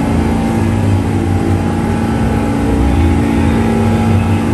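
New York City subway train running: a loud, steady low rumble with a steady hum over it.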